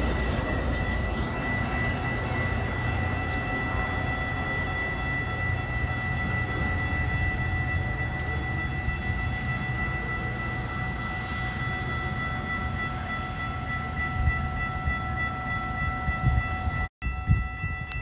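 Metra bilevel commuter train pulling away, a low rumble of wheels on rail that slowly eases, with steady high ringing tones throughout. The sound drops out briefly near the end.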